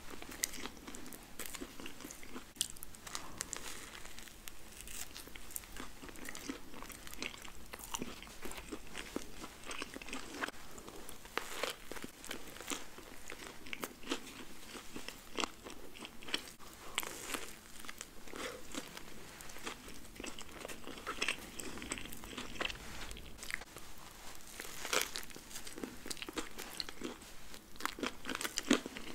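Close-miked eating of a fast-food burger: bites and steady chewing, full of small wet clicks, smacks and light crunches.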